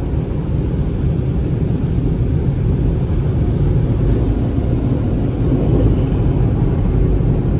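Supercharged Chevrolet Camaro's engine running at low speed, a loud steady low rumble.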